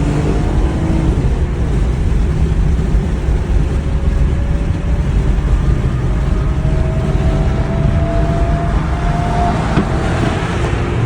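Car engines running with a steady low rumble; one engine note climbs slowly through the middle.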